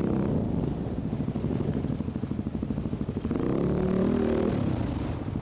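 Enduro dirt bike engine running on the trail at low revs, its firing pulses steady, with the revs rising briefly about three and a half seconds in and dropping back.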